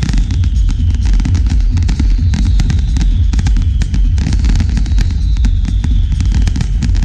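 Fireworks display: a dense, continuous run of crackling bangs and pops over a deep steady rumble, with a faint falling whistle-like tone about every two seconds.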